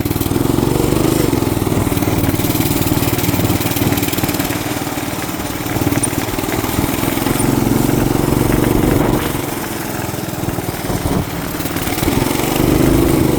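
Small off-road vehicle engine running under throttle while riding through snow, its pitch swelling up and falling back a few times.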